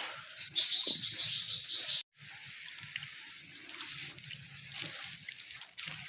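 A small bird's rapid, high trill lasting about a second and a half. It breaks off suddenly and is followed by a steady wash of trickling water with small splashes and clicks.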